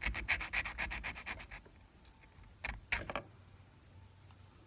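Hand file rasping across the freshly cut end of a small 14k gold bail in quick back-and-forth strokes, about five a second, stopping about a second and a half in; two more short strokes follow near three seconds.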